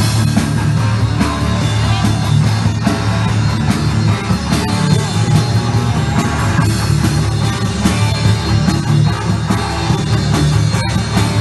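Rock band playing live without vocals: electric guitar, bass and drum kit.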